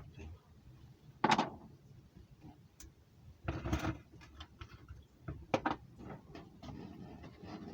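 Light mechanical clicks and knocks from handling a small model engine and its parts, with three short louder noises, the longest near the middle. The engine is not running: it has failed to start.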